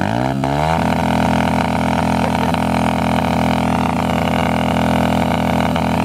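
Pit bike engine revving up in the first second, then held at a steady high rpm with an unchanging drone.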